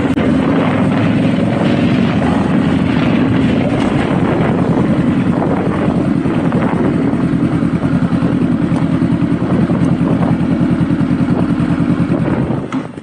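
Honda Rebel motorcycle engine running as it is ridden, heard from on board. A pulsing beat becomes more distinct after a few seconds, and the sound drops away sharply just before the end.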